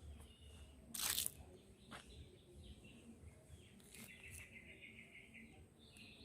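Faint outdoor ambience with a bird giving a rapid trill of repeated chirps about four seconds in and more chirps near the end. A brief loud burst of noise comes about a second in.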